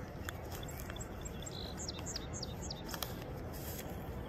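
Birds chirping: a quick run of four short falling whistles about two seconds in, with a few fainter chirps before them, over steady background noise.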